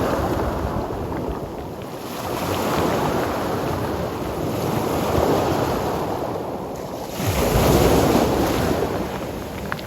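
Sea waves breaking onto a pebble beach and washing back over the stones, rising and falling in surges with the biggest one about three quarters of the way through. Wind buffets the microphone.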